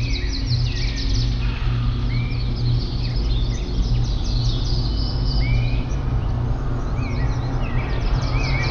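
Several songbirds chirping and twittering in quick trills, with a few short up-sweeping calls, over a steady low drone.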